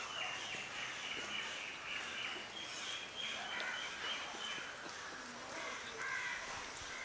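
Birds calling in the background: many short, high calls repeating over a faint steady hiss.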